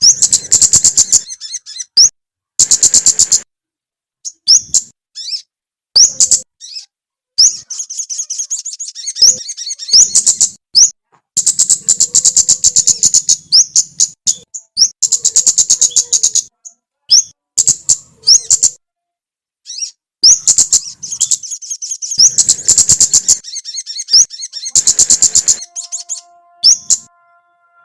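A small songbird singing loud, high, rapid trills and sharp chirps. The phrases are repeated again and again, with short silent gaps between them. Near the end there are faint steady tones underneath.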